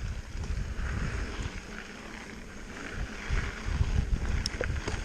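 Wind rushing over the microphone, with rumble and rattle from a mountain bike riding fast down a dirt trail; a few sharp clicks near the end.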